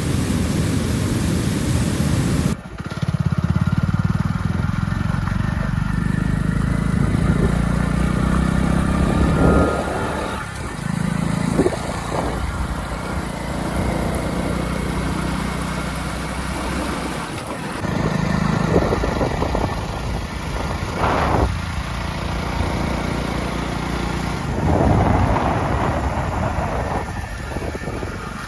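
Motorcycle engine running steadily, a low hum with brief surges in level. A loud rushing noise covers the first couple of seconds and cuts off suddenly.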